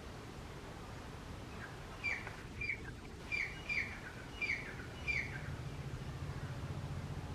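Grey francolin calling: a run of six sharp notes, each sliding down in pitch, about one every two-thirds of a second. A low rumble comes in near the end.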